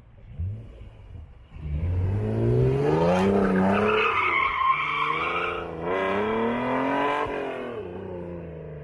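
Honda NSX NA2's 3.2-litre V6, breathing through a Pride V2 exhaust and high-flow catalytic converters, accelerating hard. After a low running start with a short blip, its note climbs steeply in pitch about a second and a half in, drops back once and climbs again, then eases off and fades near the end.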